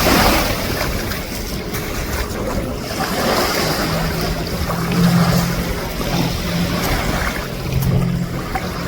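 Sea waves washing in and drawing back on the beach in surges a few seconds apart, with wind on the microphone. A steady low hum joins about four seconds in.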